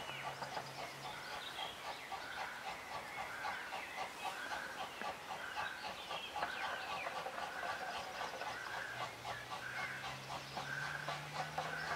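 Birds calling: one short call repeated about once a second over a dense twittering. About eight seconds in, a low hum comes in and rises slowly in pitch.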